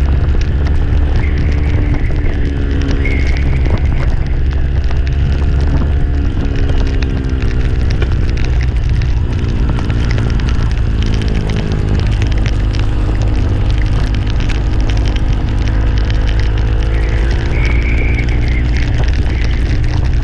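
A vehicle on the move: an engine running with its pitch rising and falling, over a deep, steady rumble.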